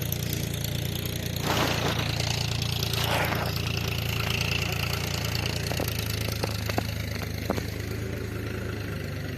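Diesel engine of a tractor or backhoe running steadily at idle. About a second and a half in, a rush of noise lasts about two seconds, and a few sharp knocks sound later on.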